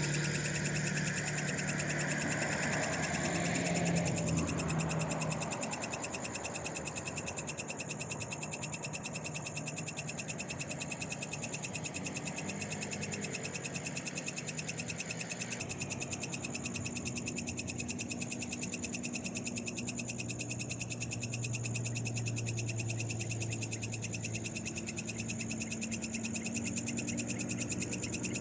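Night chorus of frogs calling over a steady high-pitched trill. A passing vehicle fades away during the first few seconds.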